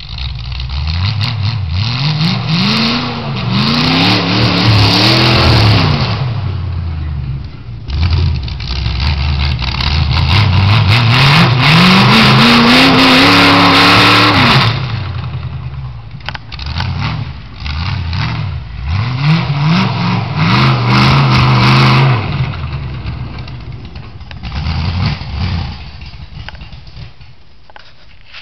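Small-block Chevy V8 of a 1968 Chevy demolition derby truck revving up and easing off three times, its pitch climbing and falling, the middle run the longest and loudest. The engine sound dies down near the end.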